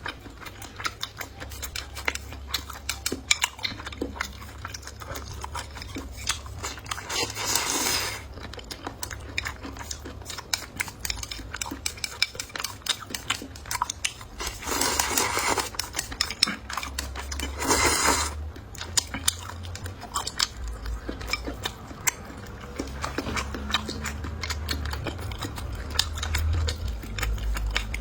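Close-up eating sounds: chewing and biting, with utensils clicking against dishes. Three louder noisy stretches of about a second each, about seven, fifteen and eighteen seconds in.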